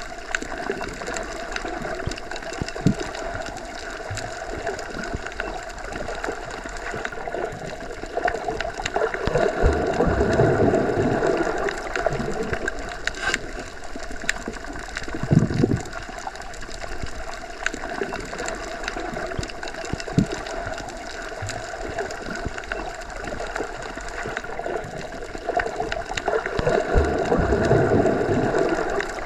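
Underwater ambience: a steady bed of water noise that swells twice, with scattered sharp clicks and a few low thumps.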